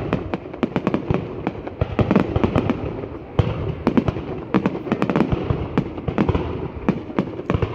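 Fireworks going off: a dense, irregular run of bangs and crackles, several a second, with no pause.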